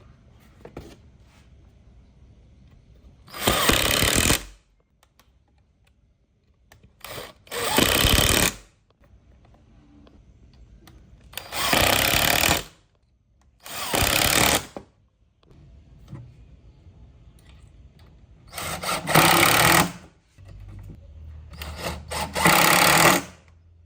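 Handheld power tool, such as a drill or driver, run in short bursts of about a second each, six or seven times, with pauses of a few seconds between them.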